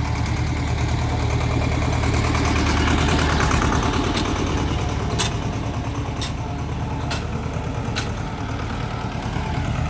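Tractor engine running steadily while it drives a sugarcane crusher that is pressing out cane juice. About five sharp clicks or cracks come in the middle, roughly a second apart.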